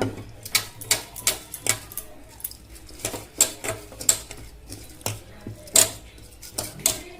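A metal spoon clinks and knocks irregularly against a cooking pot, about two sharp taps a second, as rice goes into the pot to cook.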